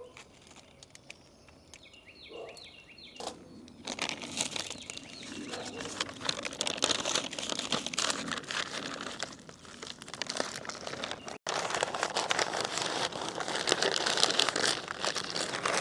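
Wrapping being crinkled and crumpled as it is folded around a smoked brisket, starting about three seconds in and continuing in dense bursts, with a brief break past the middle.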